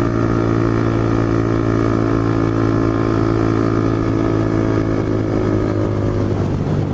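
Motorcycle engine running at a steady cruising speed while riding, holding an even pitch, which shifts a little near the end.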